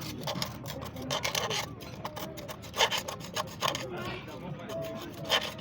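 Rasping strokes of a hand tool being filed or rubbed back and forth, in uneven bursts of several strokes.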